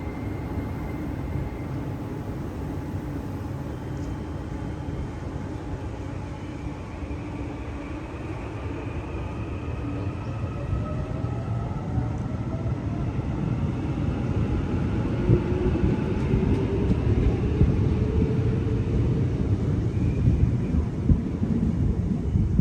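A train running on the rails: a steady low rumble that grows louder over the second half, with several whining tones gliding upward in pitch through the middle.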